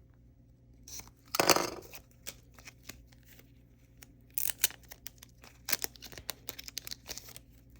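Packaging around trading cards being torn open and handled: one loud tearing sound about a second and a half in, then a run of short crinkles and small clicks as the cards are pulled out.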